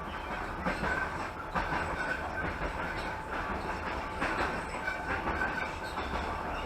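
Passenger train running at speed, heard from inside the carriage: a steady rumble of the wheels on the track, broken by irregular clacks as the wheels pass over rail joints.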